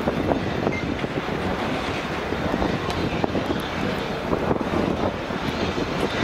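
Passenger train coaches rolling past over the rails and points, a steady rumble scattered with short wheel clicks, with wind rumbling on the microphone.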